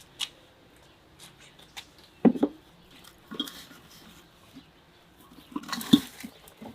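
Clinks and knocks of cooking pots and utensils being handled, a scatter of separate strikes with two louder knocks about two and six seconds in.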